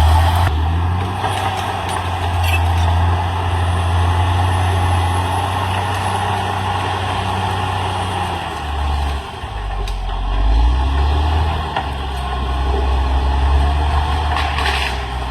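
CAT D6R XL bulldozer's diesel engine running under load, its note dipping about nine seconds in and then picking back up.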